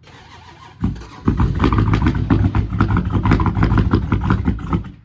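The blown engine of an SRT Jeep Grand Cherokee turning over with a loud, fast, rough rhythmic churn. It starts about a second in and cuts off just before the end, without settling into a clean run.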